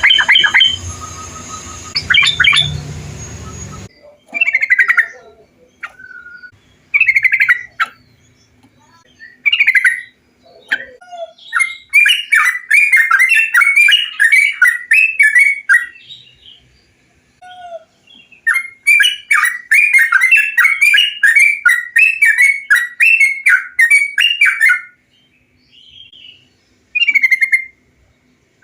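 Yellow-vented bulbul song: short bubbly phrases, then two long runs of rapid, chattering warbles about 12 and 19 seconds in, ending with a few short phrases. For the first few seconds there is a noisier recording with hiss and a low hum under the calls.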